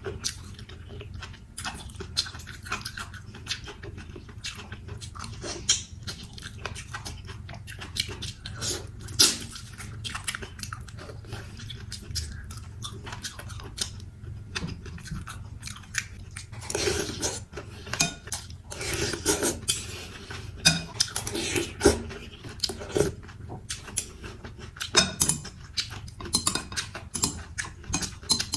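Mouth sounds of eating a bowl of mì Quảng chicken noodles: chewing and biting, with many irregular short wet smacks and clicks, busier from about the middle of the stretch.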